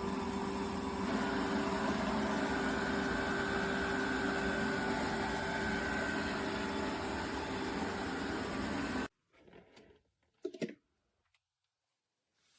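Robot vacuum running: a steady motor hum and whir with a held tone. It cuts off abruptly about nine seconds in, followed by a couple of faint clicks.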